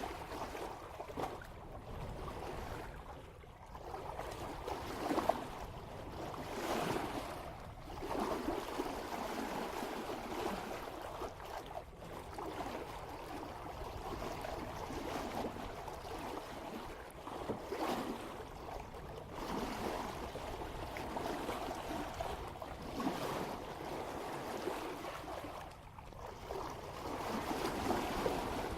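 Water rushing and splashing along the bow of a sailboat moving at about 3 knots, swelling and easing in an uneven rhythm as the hull meets the swell. Some light wind buffets the microphone.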